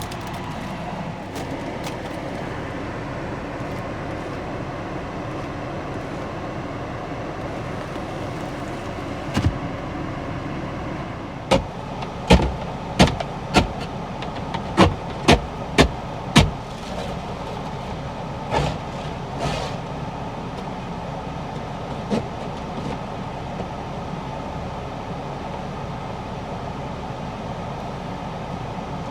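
Steady car-cabin noise from the car's engine and fan running, with sharp knocks on the car: one about a third of the way in, then a quick run of seven or eight about half a second apart near the middle, and a few fainter ones after.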